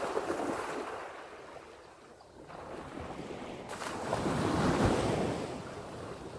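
Ocean waves washing in, with wind buffeting the microphone; the wash swells to its loudest about four to five seconds in.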